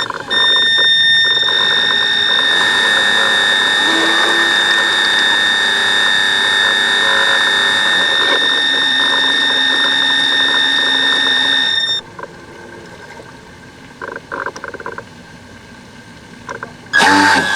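Radio-controlled model boat's electric drive running under throttle, a loud steady high-pitched whine that cuts off suddenly about twelve seconds in. A short loud burst of noise comes near the end.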